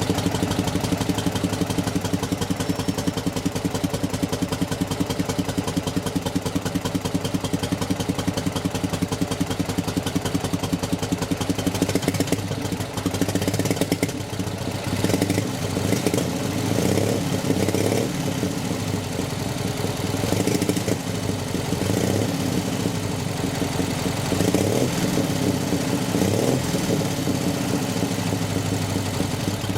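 Soviet M72 sidecar motorcycle's flat-twin side-valve engine idling, with several short blips of the throttle in the second half.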